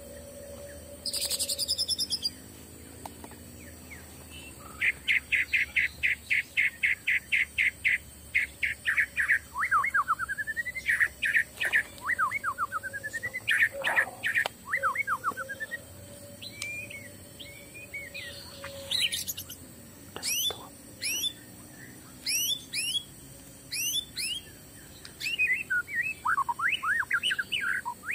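Forest birds singing. Rapid runs of repeated chirps start about five seconds in, then gliding whistled notes, then sharp sweeping high notes about two-thirds through, and another quick chirp series near the end.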